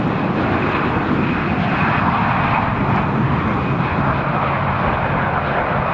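Airliner engines running, a loud, steady, dense noise with a faint high whine.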